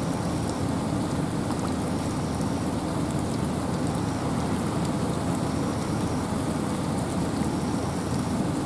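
Steady rain falling in a forest with wind: an even rushing, strongest low down, with a light patter of drops.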